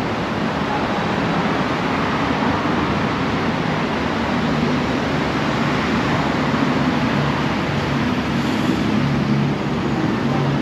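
Steady road-traffic noise with a low, shifting engine hum.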